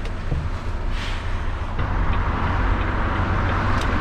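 Articulated lorry's diesel engine running with road noise, the engine note and noise growing louder about two seconds in.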